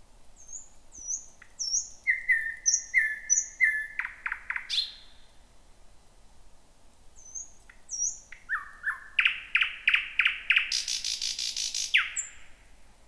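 Thrush nightingale singing two song phrases about three seconds apart. Each phrase is a run of repeated clear notes that speeds into a fast, dry rattle, and the second phrase ends in a sharp falling note.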